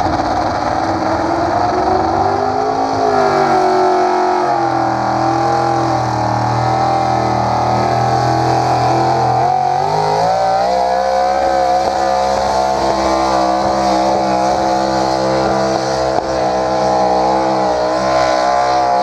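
Carbureted big-block pulling vehicle's engine running hard at high revs under load while pulling the sled. The note is steady and loud, dips briefly about halfway through, then climbs and holds high.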